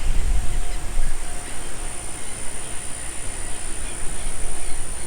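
Steady mechanical noise from a water treatment plant, with a constant high-pitched whine over it and wind buffeting the microphone.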